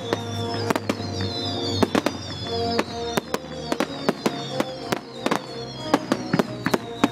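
Fireworks going off: many sharp bangs and crackles in quick succession, over music.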